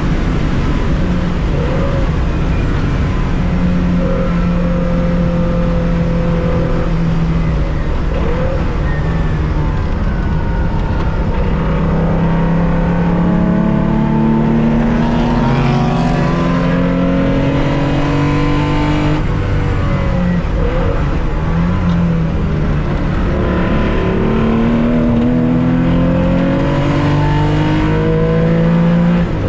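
Air-cooled flat-six engine of a 1965 Porsche 911 2.0 racing, heard from inside the cockpit. It holds a steady pitch at first, then through the second half repeatedly climbs in pitch under acceleration and drops back at each gear change.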